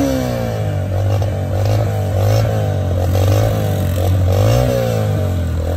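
Motorcycle engine heard from on board while riding, its pitch rising and falling several times as the throttle is opened and eased off, over a steady low drone.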